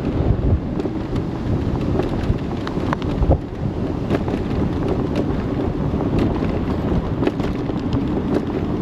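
Wind buffeting the action camera's microphone while riding an electric moped, a steady low rumble, with scattered small clicks and knocks from the ride.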